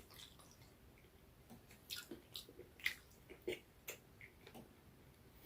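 Close-miked chewing of food, with quiet wet smacks and clicks of the mouth, several a second, starting about a second and a half in.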